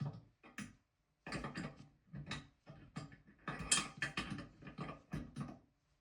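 A stiff nut being turned on a toilet tank-to-bowl bolt with a hand tool: a string of short, uneven grinding, ratcheting strokes.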